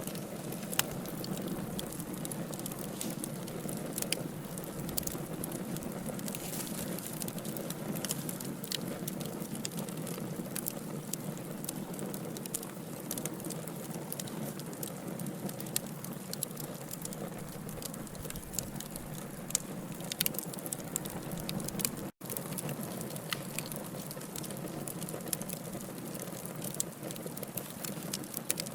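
Wood fire of burning logs crackling: a steady low rush with frequent sharp pops and crackles. The sound cuts out for an instant about twenty-two seconds in.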